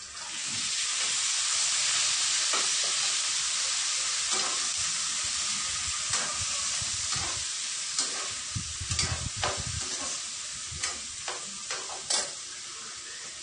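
Pressure-cooked ox tripe hitting a hot frying pan of sautéed garlic and onion, sizzling loudly at once and then slowly settling: the tripe being sautéed. A metal ladle clinks against the pan now and then as it is stirred.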